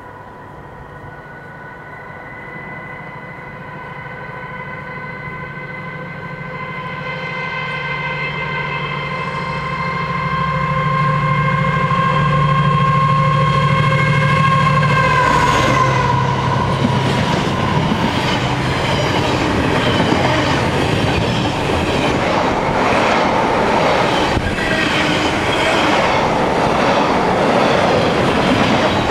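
Freightliner Class 70 diesel locomotive approaching with a steady high whine over its engine note, growing louder. About fifteen seconds in, the whine drops in pitch as the locomotive passes, and its container wagons follow, rattling and clattering over the rail joints.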